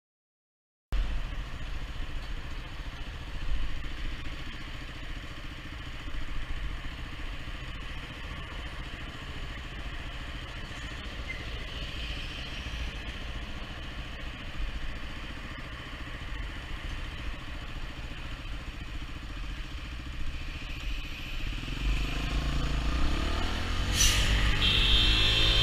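Motorcycle riding, heard from the rider's camera: a steady low engine rumble under wind and road noise. About 22 seconds in, the engine revs up and grows louder as the bike accelerates. A sharp click and a short high-pitched tone follow near the end.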